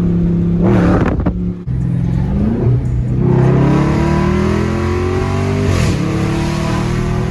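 Dodge Scat Pack's 6.4-litre HEMI V8, running straight through with its mufflers and resonators deleted, loud under hard throttle. A short rev and a sudden dip about a second and a half in, then the engine note climbs steadily, with a brief break near six seconds before it climbs again.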